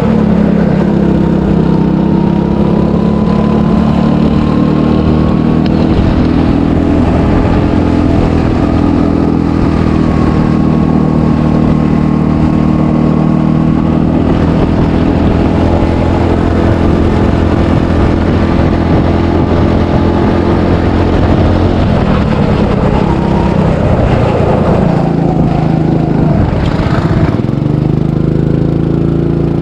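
300cc go-kart engine running hard on a lap, its pitch held fairly steady for a long stretch. About two-thirds through the note drops and wavers for a few seconds, then settles back to a steady pitch.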